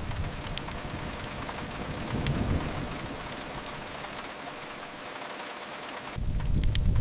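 Steady rain hiss with a low rumble swelling about two seconds in. Near the end, a fire's sharp crackles and a deep low rumble cut in suddenly.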